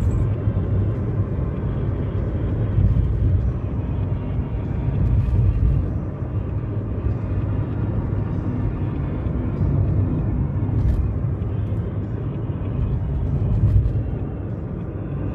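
Car driving on a highway, heard from inside the cabin: a steady low rumble of road and engine noise.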